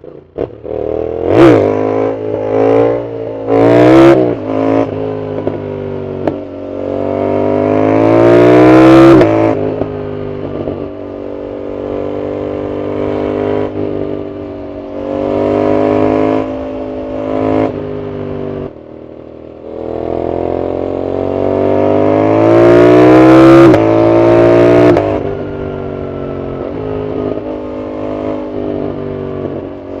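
Yamaha MT-07's parallel-twin engine through a loud aftermarket full exhaust, heard from the rider's seat. A few quick rev blips come in the first seconds, then two long pulls up through the revs about a third of the way in and again two-thirds in, each cut off sharply, with steadier cruising in between.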